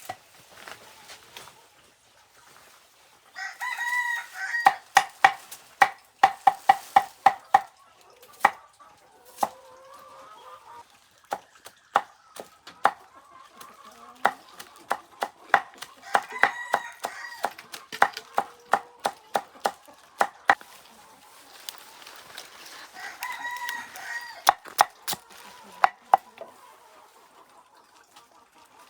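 A rooster crowing three times, each crow about a second long, over a knife chopping kohlrabi bulbs on a cutting board in quick runs of strokes.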